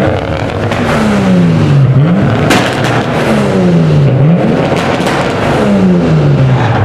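Sports car engine revving hard, its pitch sliding down and snapping back up three times, with a single sharp crack about two and a half seconds in.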